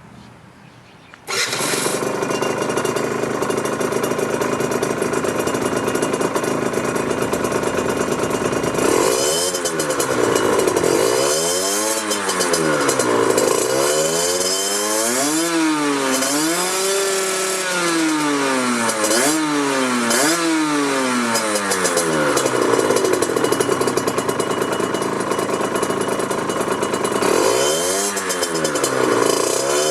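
Yamaha TZR50R's 50cc two-stroke single-cylinder engine starting about a second in, idling steadily, then revved up and down repeatedly with the throttle, the pitch rising and falling with each blip.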